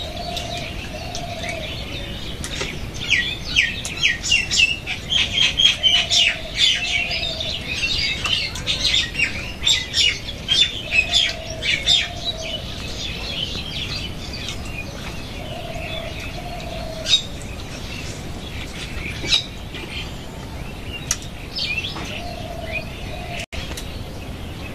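Birds chirping: a dense run of quick high chirps for about ten seconds, thinning out after, with a lower two-note call repeating every few seconds.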